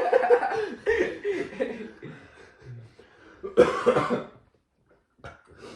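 A man coughing from the burn of extremely hot chili sauce in his throat, with a loud cough about three and a half seconds in.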